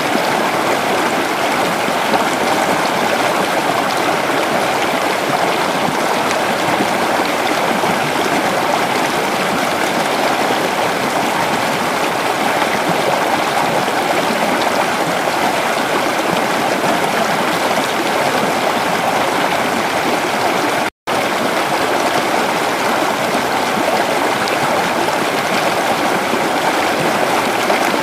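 Creek water flowing steadily over its bed, an even rushing and burbling. It cuts out to silence for an instant about three-quarters of the way through.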